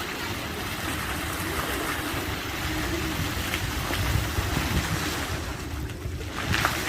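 Waterfall rushing, a steady hiss of falling water, with a low rumble of wind on the microphone. The rushing thins out briefly about five seconds in, and a few sharp clicks come at the very end.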